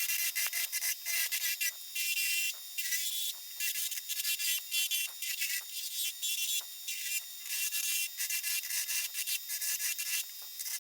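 Hickory spatula blank spinning on a wood lathe while a tool or abrasive works its surface: a rough, rasping scrape that comes and goes in short repeated strokes over a faint steady hum.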